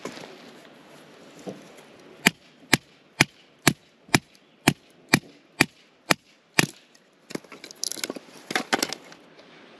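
A series of about ten sharp knocks, roughly two a second, followed by a brief rattling clatter.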